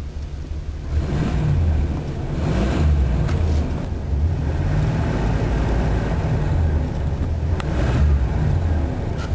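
A 1985 Chevrolet Caprice Classic's 305 cubic-inch V8 running steadily. The engine note swells a few times as it is given light throttle. The owner says the engine has valve problems.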